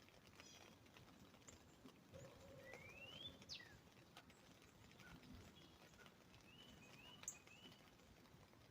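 Faint, scattered drips of rain tapping on an umbrella, with birds calling: a rising whistle about three seconds in and a short run of chirps near seven seconds.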